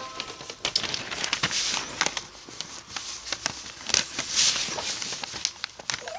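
A sheet of paper rustling and crinkling as it is folded by hand, with many small irregular crackles and rustles throughout.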